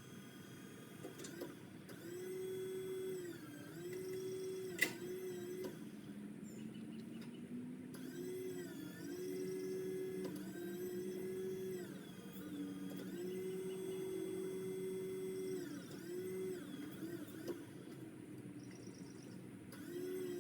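Craftsman power limb cutter's electric motor running in repeated spells of a second or three, its whine sagging in pitch each time it bites into a branch. There is a single sharp crack about five seconds in.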